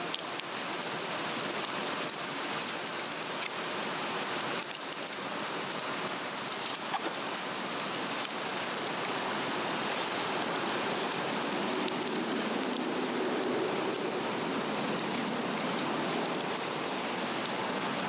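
Steady rushing of a nearby brook, with a few faint crackles from a burning Swedish torch log.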